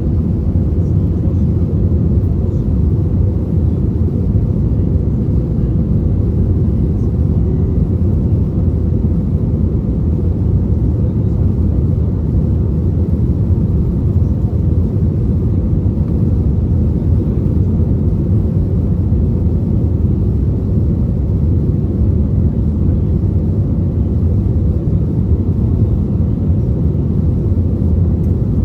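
Cabin noise of an Airbus A320neo in flight, heard from a rear seat: a steady low rumble of airflow and the CFM LEAP-1A engines, with no change in pitch.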